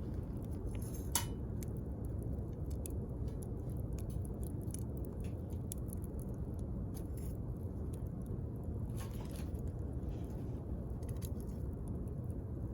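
Wood campfire crackling: scattered sharp pops and snaps over a steady low rumble of the burning fire, with one louder pop about a second in.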